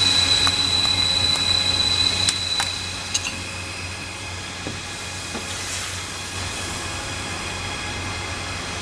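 Welding equipment running with a steady high whine over a low hum. The louder part stops about two and a half seconds in with a few sharp clicks, leaving a quieter steady hum.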